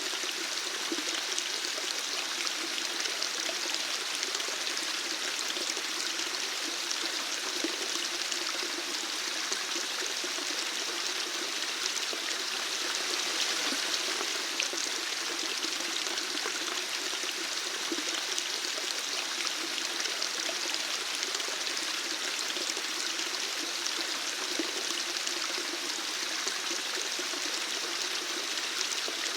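Running water flowing steadily, an even unchanging sound of a stream.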